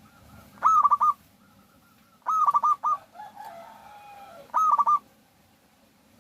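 Local zebra dove (perkutut) singing its cooing song: three phrases, each a rising note broken into a quick stuttering run, with a fainter, lower call between the second and third.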